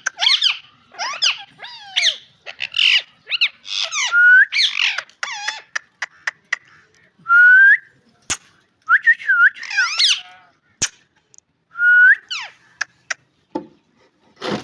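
Ringneck parakeet calling: bursts of rapid chattering chirps and whistled notes that slide up and down, broken by short pauses and a few sharp clicks. A clear rising whistle comes back several times, about four, seven and twelve seconds in.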